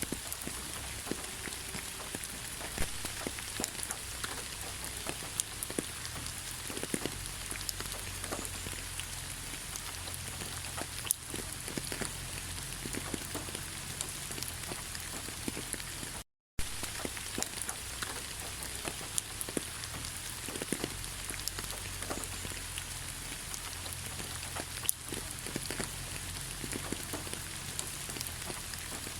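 Steady rain falling, with many individual drops ticking on a surface over an even hiss and a low rumble underneath. The sound cuts out completely for a split second about two-thirds of the way through, then carries on unchanged.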